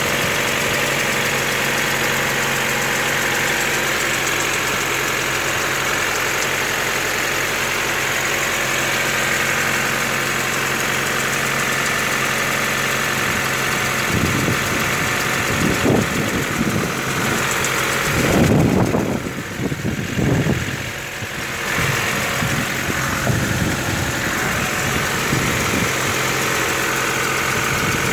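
Honda D14A4 1.4-litre four-cylinder engine idling cold with a knock, a cold-engine knock whose cause the owner does not know. About halfway through, the sound swells and dips unevenly for several seconds before settling back to a steady idle.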